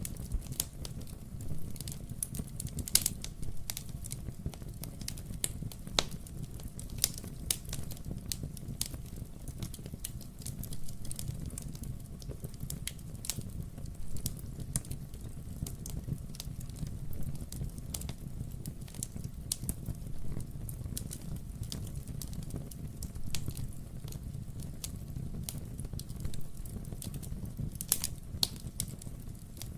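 Wood fire burning in a fireplace: irregular crackling with frequent sharp pops over a steady low rumble. The louder pops come about 3 s and 6 s in and near the end.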